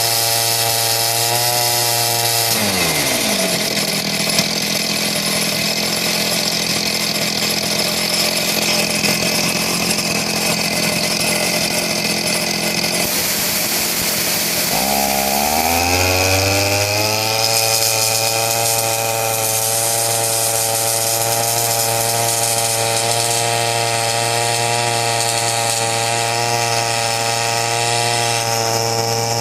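Small engine-driven air compressor running: the engine slows sharply about two and a half seconds in, runs at low speed, then speeds back up about fifteen seconds in and runs steadily again.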